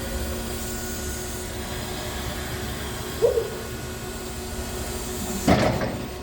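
Electric forklift running with a steady machine hum over a low rumble. A short knock comes about three seconds in, and a louder clatter comes near the end.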